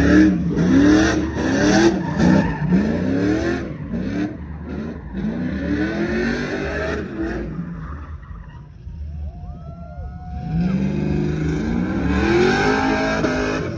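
A truck engine revving hard in a burnout, its pitch climbing in quick repeated pulls over the hiss of spinning tyres. It drops off about eight seconds in, then climbs again in one long pull near the end.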